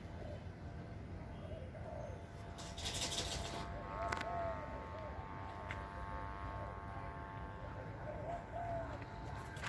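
Doves cooing in short, repeated arched calls over the steady hum of bamboo kite flutes (diều sáo) sounding several pitches at once, with a low wind rumble. A brief rustling burst comes about three seconds in.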